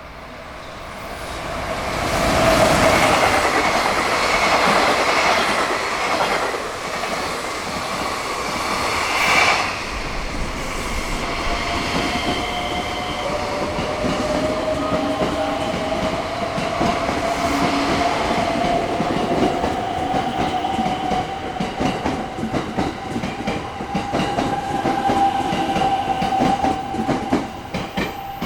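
High-speed freight train behind a JR Freight EF210 electric locomotive passing at speed, loud from about two seconds in, its wagon wheels clattering rapidly over the rail joints. Through the second half a steady whine rises slowly in pitch from a local train that overlaps the freight.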